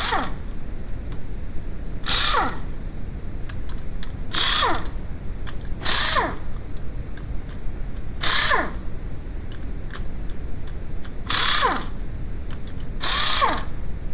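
A handheld power tool run in short bursts of about half a second, roughly every two seconds, each burst ending in a falling whine as the tool spins down, as when running bolts out on the engine.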